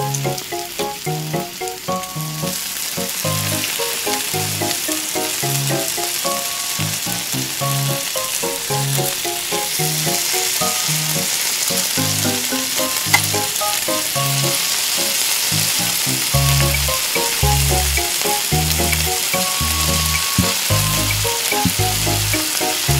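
Cheetos-crusted eel pieces deep-frying in hot oil in a miniature steel wok: a steady, dense sizzle that builds over the first few seconds as the pieces go in. Light background music plays underneath, with bass notes coming in past the halfway point.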